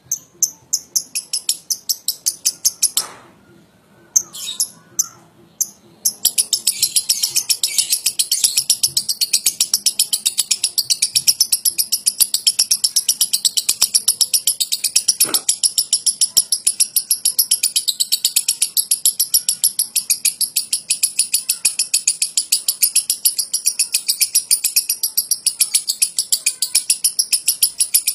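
Lovebird giving its rapid 'ngetik' chatter: a few short runs of sharp high chirps, then from about six seconds in a long, unbroken, machine-gun-fast string of clicking chirps, the long 'ngekek' that is used to bait other lovebirds into singing.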